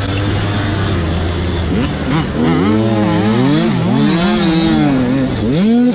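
Motocross dirt bike engines running on the track: a steady engine note, then from about two seconds in engines revving up and down repeatedly as riders accelerate and shift.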